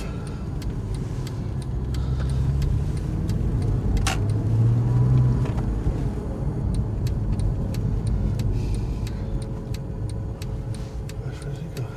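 Porsche 911 (997.1) flat-six engine pulling away. The engine note builds up to about five seconds in, then settles to a steady cruise, with light clicks and rattles from the cabin throughout.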